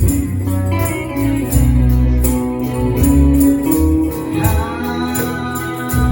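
Live gospel song in church: a man singing over a band with bass and a tambourine shaken on a steady beat.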